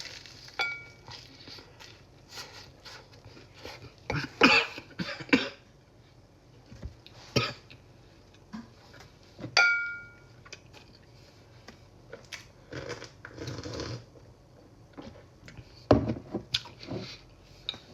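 Close-up eating sounds of a person biting into and chewing a burger: irregular bites, smacks and mouth noises every few seconds, one or two of them like a short cough or throat clearing.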